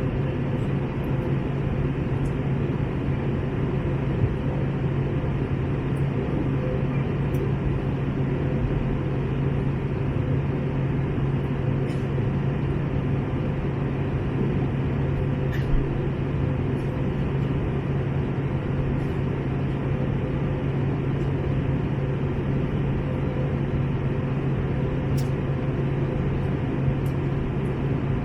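Airbus A321 cabin noise in flight: a steady roar of engine and airflow with a low steady hum underneath. A couple of faint clicks show through it.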